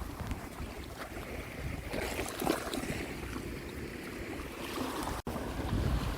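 Small lake waves washing on a shoreline, with wind rumbling on the microphone.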